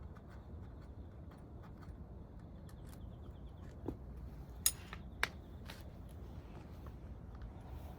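A few light metallic clicks and clinks, four in about two seconds near the middle, the sharpest a little after halfway, over a steady low hum.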